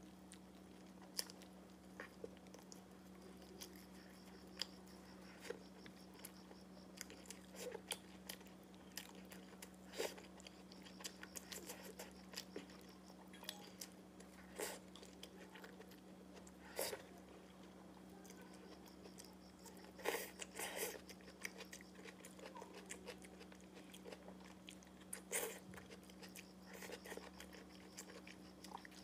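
A person eating close to the microphone, chewing and biting soft steamed bun and saucy tomato-and-egg, with many scattered short mouth clicks and smacks. A steady low hum sits underneath.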